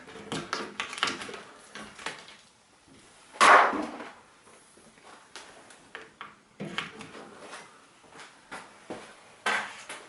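Handling noises of repair work on a microwave oven and multimeter test leads: scattered clicks and knocks, with a short louder scrape about three and a half seconds in and another near the end.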